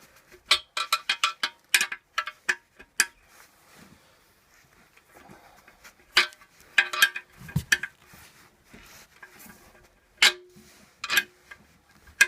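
Sharp metallic knocks and clicks on a cast-iron stove top plate as its knockout circle is forced out. They come irregularly in quick clusters, the first near the start, and several leave a short ringing tone.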